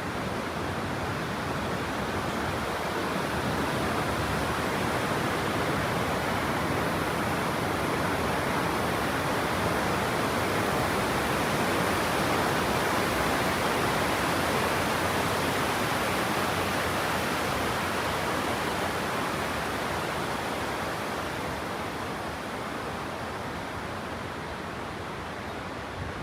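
Steady rush of water from a waterfall, growing louder toward the middle and easing off near the end.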